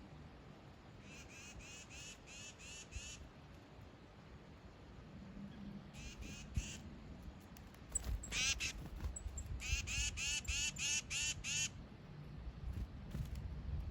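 A bird calling in quick series of short, harsh, high-pitched notes, about three a second, in several bouts with pauses between them.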